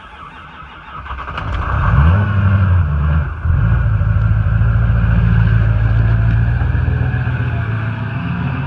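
Ford 6.0 Powerstroke V8 turbo-diesel cold-starting without its block heater: it cranks for about two seconds, catches with a brief rise in revs, stumbles for a moment about three seconds in, then settles into a steady idle.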